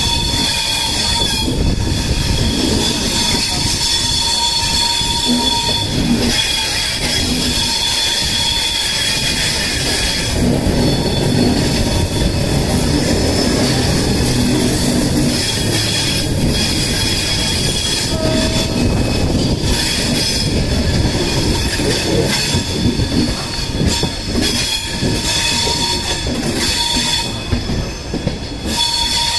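Passenger train coaches running over the rails into a station, a steady rumble and rattle of the wheels on the track with a continuous high squeal from the steel wheels.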